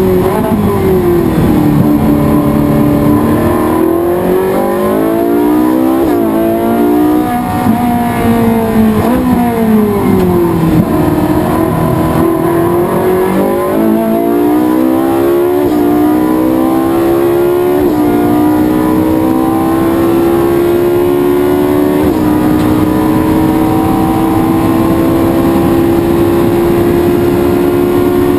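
Race car engine being driven hard on track: revs drop as it slows, climb, drop again, then rise in steps through several upshifts before holding high and creeping up slowly on a long straight.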